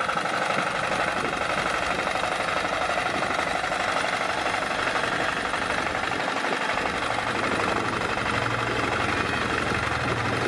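A small motor running steadily with a mechanical whirr, likely a toy vehicle's; a low hum joins in about seven seconds in.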